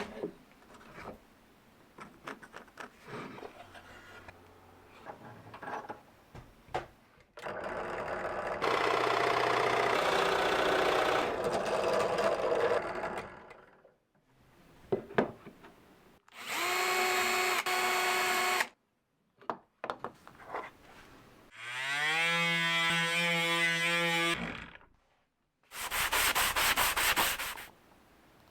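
Woodworking power tools run in separate short bursts. Light knocks and handling clicks come first. Then a tool cuts for about five seconds, a motor whines briefly, and a motor spins up with a rising whine and holds steady. A last short burst with a fast even rattle comes near the end.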